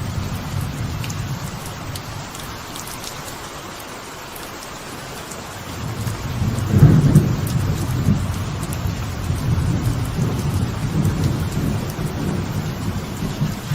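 Light rain falling steadily on a veranda with rolling thunder. A low rumble dies away over the first few seconds, and a new peal builds about six seconds in, is loudest a second later, and keeps rumbling to the end.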